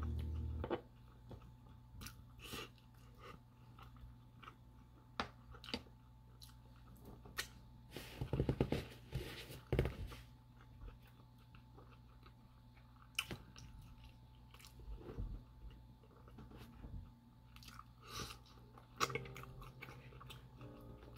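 A person chewing and biting food close to the microphone: scattered short wet clicks and bites, busier about eight to ten seconds in.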